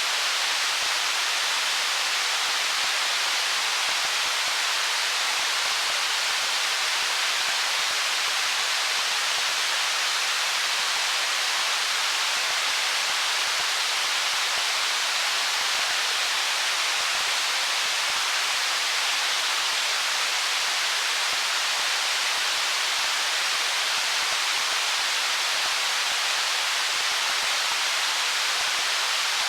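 Stream water running over rocks: a steady, even rushing hiss with little bass and no change in level.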